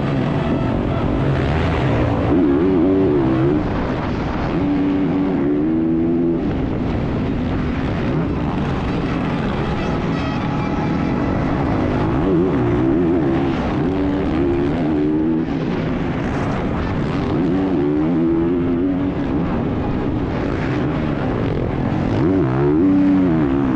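Dirt bike engine revving up and dropping back over and over as the bike rides, its pitch climbing several times as it accelerates, with a steady rush of wind and road noise on the microphone.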